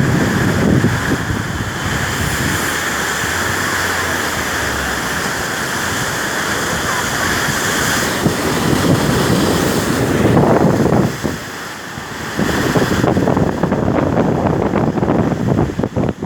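Rough winter sea: waves breaking and washing in repeated surges, with a brief lull about eleven seconds in. Wind buffets the microphone throughout.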